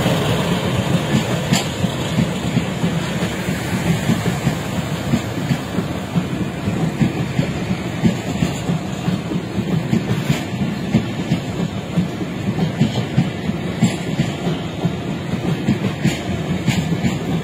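Passenger coaches of a Bangladesh Railway express train rolling past close by: a steady rumble of steel wheels on rail, broken by repeated clickety-clack as the wheels cross rail joints.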